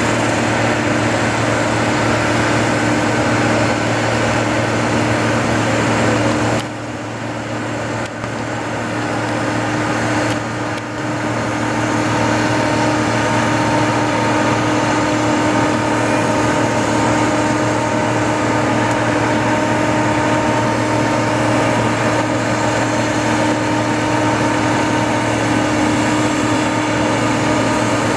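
Steady turbine whine and hum of a Boeing 777-281 airliner standing at the gate, most likely its auxiliary power unit running. The sound drops briefly about seven seconds in, then returns to its steady level.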